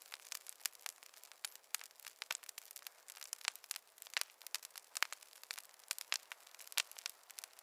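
Wood fire crackling in a fireplace: dense, irregular snaps and pops several times a second over a faint hiss, with no low rumble.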